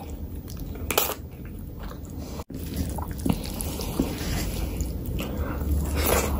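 Close-miked chewing and biting of mutton curry and rice, with wet mouth clicks, and sticky squishing as curry-soaked rice is mixed by hand and pushed into the mouth. The sound cuts out for an instant about two and a half seconds in.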